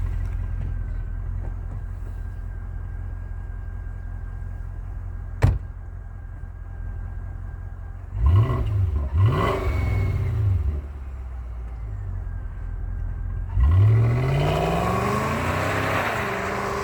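Volvo S80's 4.4-litre V8 idling, with a single sharp click partway through. It is then blipped twice in quick succession, and near the end given a longer rev that rises and falls back toward idle.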